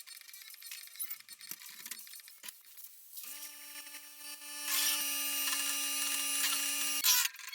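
Light clicks and clinks of handling, then an electric shop-machine motor starts: its hum rises quickly to a steady pitch about three seconds in, gets louder about a second and a half later, and cuts off abruptly near the end.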